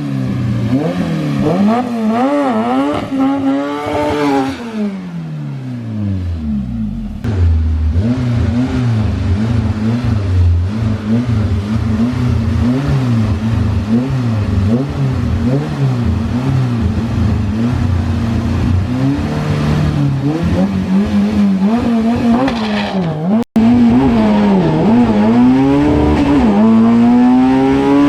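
Honda-swapped race truck engine revving: the revs climb unevenly for a few seconds and then drop. Next comes a long spell of quick throttle blips around a high idle. After an abrupt cut about 23 seconds in, the engine accelerates hard with the revs rising steadily.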